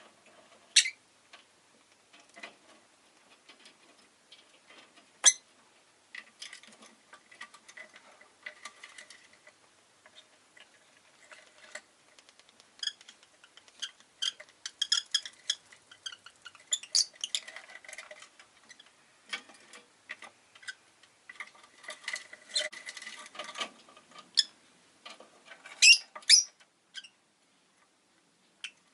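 Rosy-faced lovebird making soft chattering sounds mixed with many small rapid clicks and taps, with a few louder sharp clicks, once just after the start, once about five seconds in and a pair near the end.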